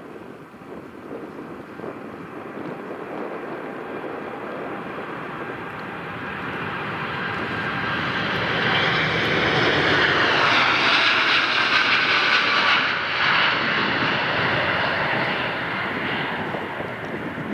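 Jet airliner's engines passing by, swelling to loudest about ten to thirteen seconds in. The whine drops in pitch as the plane goes past, then the sound fades.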